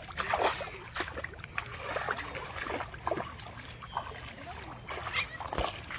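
Muddy water splashing and sloshing in irregular bursts over a steady low engine rumble.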